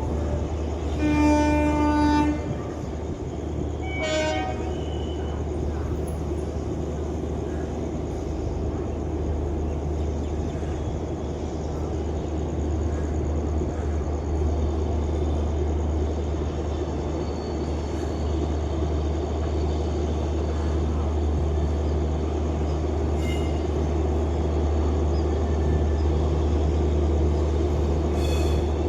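Indian Railways WAP4 electric locomotive's horn sounding twice, a longer blast about a second in and a short toot about four seconds in, over the steady low rumble of a passenger train running on the track.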